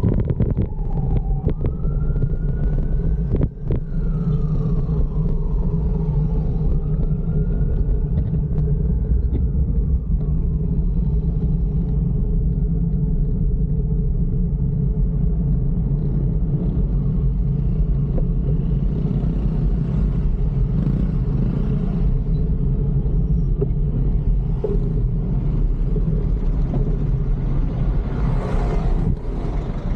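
Steady low rumble of road traffic heard from a moving bicycle, with an emergency-vehicle siren slowly wailing up and down that fades out about a third of the way through. A louder rush comes near the end.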